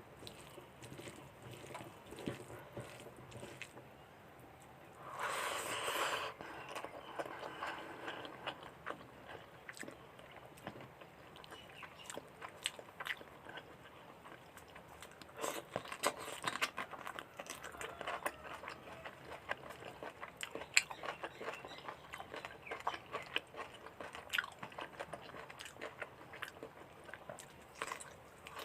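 Close-up eating sounds: a person chewing and biting through mutton curry with rice, with wet smacking and crisp crunchy bites, and a louder noisy burst about five seconds in.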